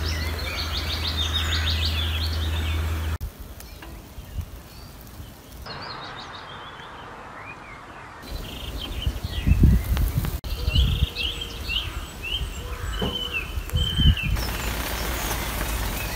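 Wild birds chirping and singing, with low rumbling noise on the microphone now and then. The background changes abruptly several times.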